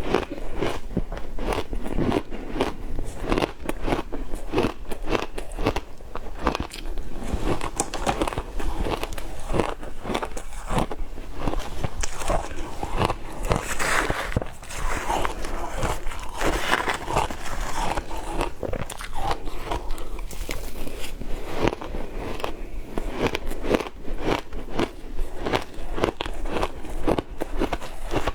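Frozen matcha ice being bitten and chewed, a continuous run of sharp crunches and crackles with no pause.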